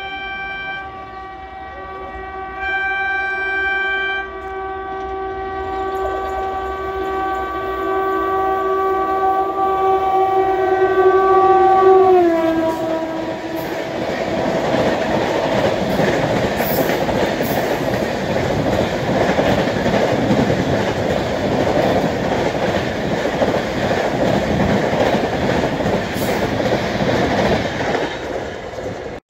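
Express train sounding its horn as it approaches at speed: two short blasts, then a long blast that drops in pitch as the locomotive passes about twelve seconds in. A loud rushing rumble and clatter of passenger coaches speeding past follows and fades near the end.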